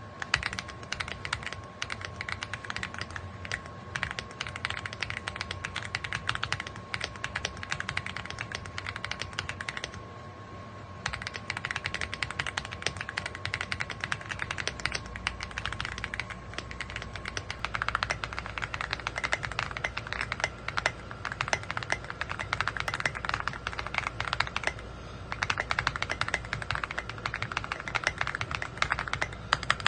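Fast typing on an EPOMAKER x Aula F75 gasket-mount mechanical keyboard, a dense run of keystroke clacks with brief pauses about ten seconds in and again near the end.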